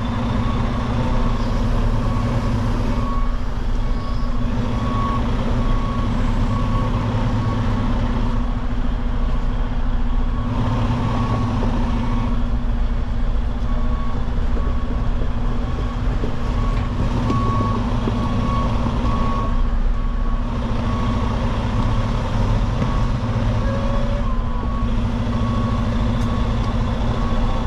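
Semi truck's diesel engine running steadily at low speed while reversing, with a backup alarm beeping in an even, repeating pattern over it.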